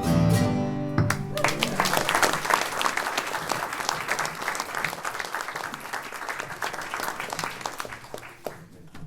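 The final chord of a folk band's acoustic string instruments ringing out, then audience applause breaking out about a second and a half in and slowly dying away near the end.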